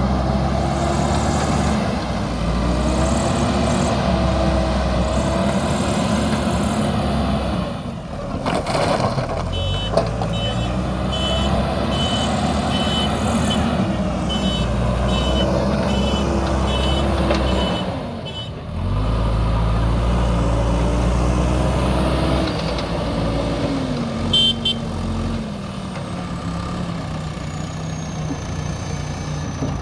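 JCB backhoe loader's diesel engine running under working load, its pitch rising and falling as the machine digs and moves, dropping away briefly twice. A reversing alarm beeps steadily for several seconds near the middle and again briefly later, and there is a knock about eight seconds in.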